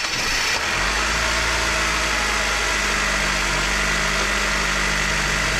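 Nissan X-Trail T32's 2.0-litre MR20DD direct-injection petrol engine starting from cold: it catches under a second in and settles into a steady, raised idle. The reviewer puts the high idle down to a dirty throttle body, and invites listeners to judge timing-chain wear from this sound.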